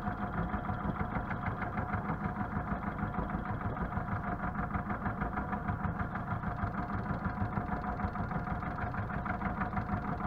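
Sailing yacht's auxiliary engine running steadily, with an even, fast pulse.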